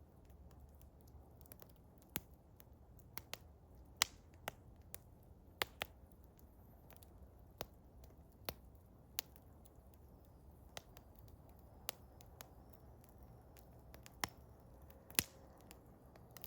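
Eastern hemlock wood fire crackling, with scattered sharp pops at irregular intervals, a few louder snaps standing out, over a faint low rumble.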